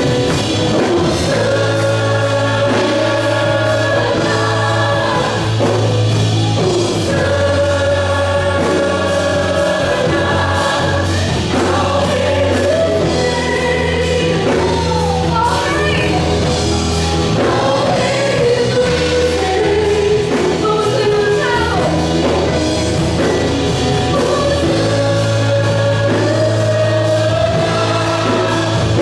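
Christian worship song: several voices singing together with long held notes over a band with sustained bass notes.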